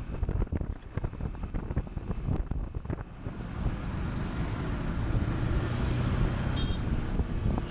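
Motorbike riding with wind buffeting the microphone: choppy gusts in the first few seconds, then a steadier rush with a low engine hum.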